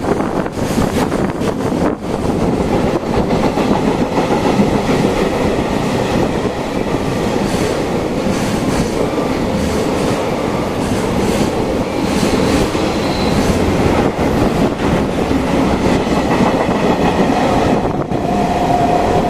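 Freight train hauled by an EF210 electric locomotive passing at speed, with the loud, steady rolling noise of its wheels on the rails and scattered knocks throughout.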